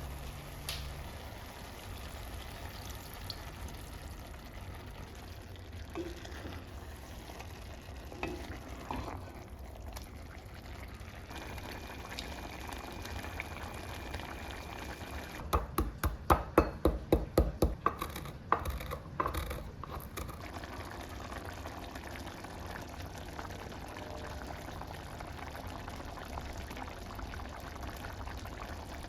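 Steady low hum with faint handling sounds, and about halfway through a quick run of about a dozen sharp clicks or taps, roughly four a second, lasting some four seconds.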